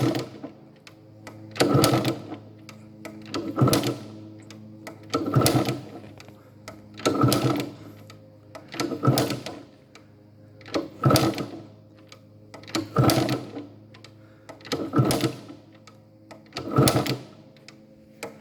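Yamaha RD50's 50cc two-stroke engine giving a loud burst about every two seconds, ten in a row, over a steady low hum.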